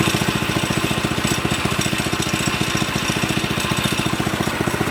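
Mini bike's small engine idling steadily with a rapid, even putter.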